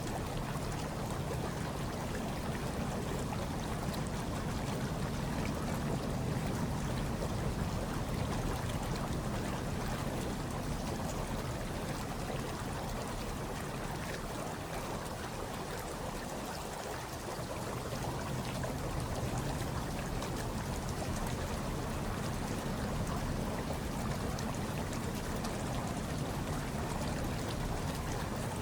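Hot tub water churning and trickling in a steady, even wash, with a brief slight lull about two-thirds of the way through.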